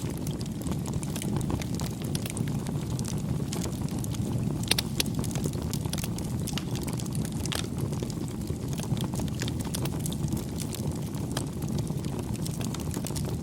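Campfire crackling: irregular sharp snaps and pops over a steady low rush of burning wood. A burst of louder snaps comes about five seconds in.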